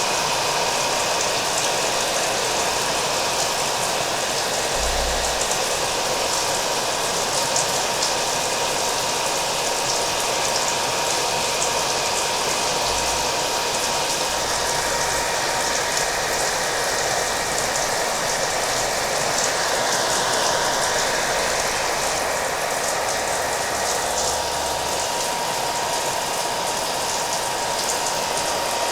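A hair dryer running steadily, its motor giving a constant whine under the rush of air, layered with steady rain.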